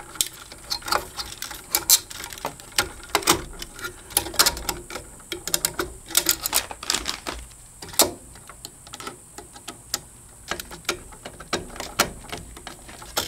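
Irregular clicks and small knocks of stiff electrical wires and a plastic outlet being handled and tucked into a metal electrical box.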